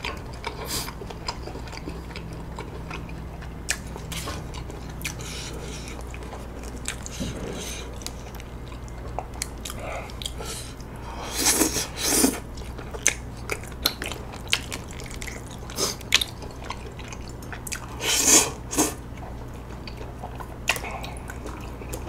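Close-miked chewing and biting of chewy tteokbokki rice cakes in red sauce, with scattered wet mouth clicks and a few louder bites around the middle and again later, over a steady low hum.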